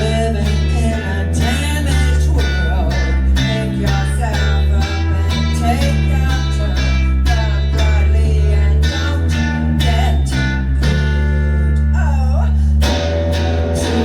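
Live rock band playing, with electric guitar, bass and drums and a wavering sung line over them.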